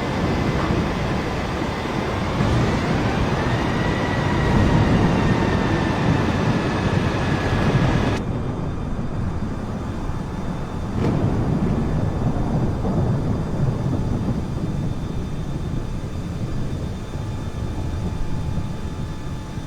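Airliner jet engines running during a landing, a loud rushing rumble with a whine that rises in pitch about two seconds in and then holds steady. About eight seconds in the high rushing part cuts off abruptly, leaving a lower rumble, and there is a single sharp knock a few seconds later.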